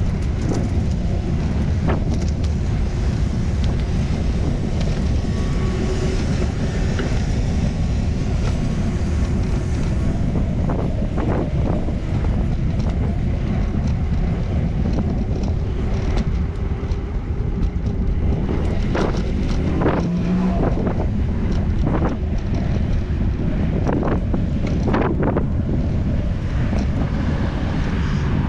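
Wind rushing over the microphone of a moving bicycle, a steady low rumble, with a few short knocks and clicks in the second half.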